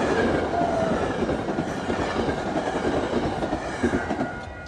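Metro-North passenger train speeding through the station without stopping: a dense, steady rush of wheels on rail that eases slightly near the end.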